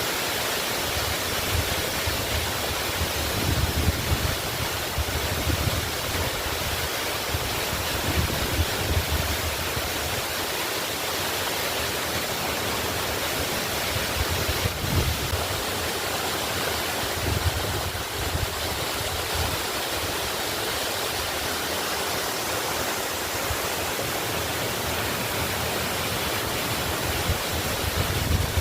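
Waterfall: a steady rush of falling water, with low rumbles swelling up every few seconds.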